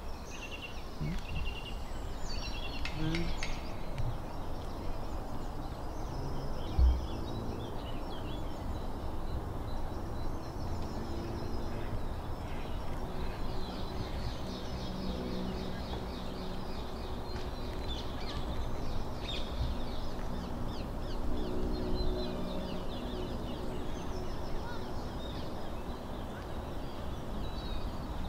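Birds chirping and calling here and there over a steady low outdoor background noise, with one brief thump about seven seconds in.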